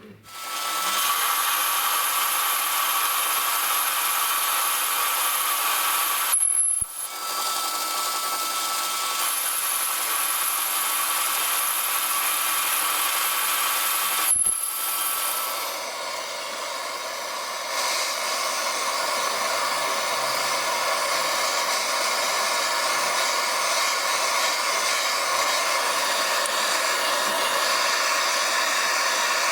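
A power tool running steadily under load, with a high whine over the noise. It breaks off abruptly twice, about six and a half and fourteen and a half seconds in, and after the second break it sounds rougher and noisier.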